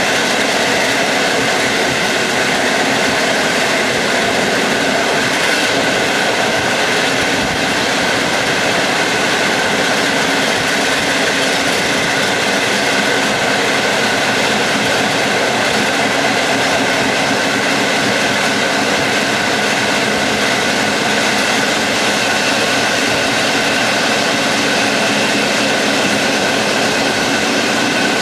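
Passenger train running steadily at speed: a constant rolling rumble with a few steady whining tones, unchanging throughout.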